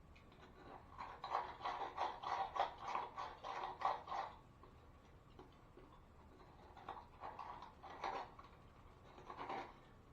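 Hand tool scraping on drywall in a quick run of short strokes, about four or five a second for a few seconds, then a few single strokes near the end.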